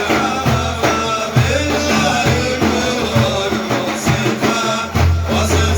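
Islamic devotional praise song (manqabah) sung by a male praise singer, with a drum beat underneath.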